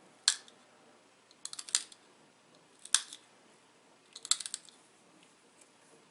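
Pressure flaking on a small dacite arrowhead: sharp stone clicks as flakes pop off the edge, in four short groups, some single and some quick runs of several.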